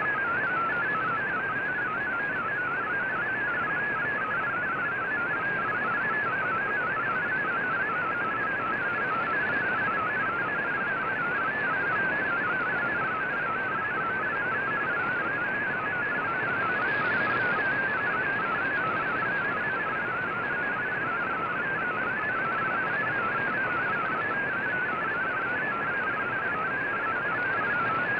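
MFSK digital data signal from a shortwave radiogram broadcast, heard through a communications receiver: a fast, warbling stream of tones hopping within a narrow pitch range, over steady band hiss.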